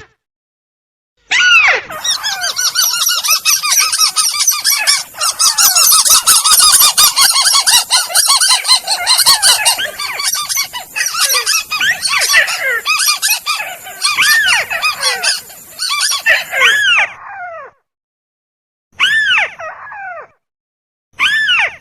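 Recorded crake (burung tikusan) lure calls: a dense, loud chorus of overlapping harsh, arched calls for about sixteen seconds, then a brief stop and two shorter call bouts near the end.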